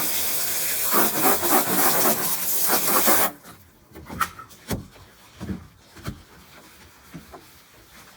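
Rapid, scratchy scrubbing strokes of a brush against a surface for about three seconds, stopping abruptly, then faint scattered rubs and taps.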